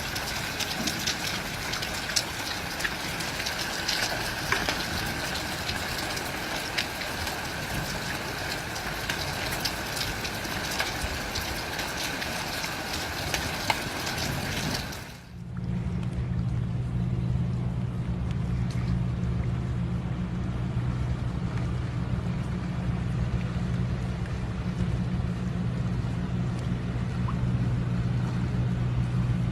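Heavy rain with many sharp ticks and a steady high tone, cut off suddenly about halfway through and replaced by a steady low rumble, like a vehicle running or storm wind.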